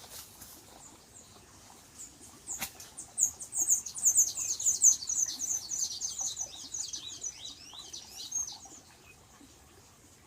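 A small bird singing a rapid run of high, thin chirps for about six seconds, some notes sliding downward, with a sharp click just before it starts.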